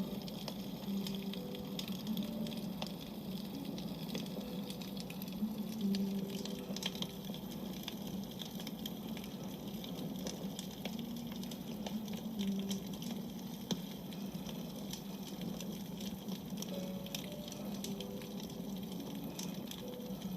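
Wood campfire burning, with frequent small crackles and pops over a steady hiss.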